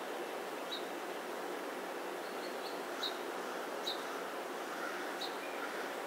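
Short, high chirps from a small songbird, a handful of them a second or so apart, over a steady background hiss.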